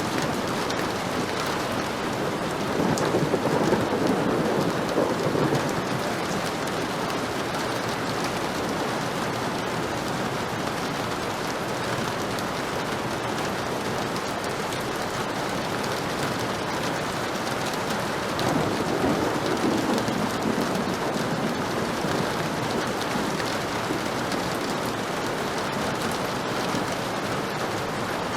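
Heavy rain falling steadily, with two low rumbles of thunder, one a few seconds in and another about two-thirds of the way through.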